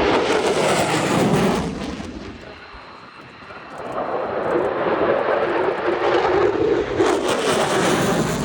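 Military jet flying low overhead with a loud engine roar that fades about two seconds in, then builds up again from about four seconds in.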